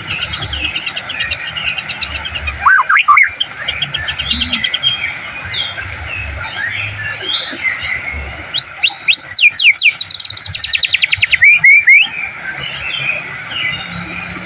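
White-rumped shama song: loud bursts of sweeping whistles and fast repeated notes ("tembakan") about three seconds in and again from about eight and a half to twelve seconds, over continuous twittering of other small birds.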